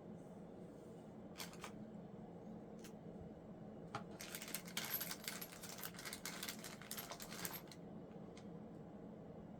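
Light clicks and rattling of small hard parts being handled: a few separate clicks, then a dense run of quick ticks and rattles lasting about three and a half seconds from about four seconds in, over a steady low hum.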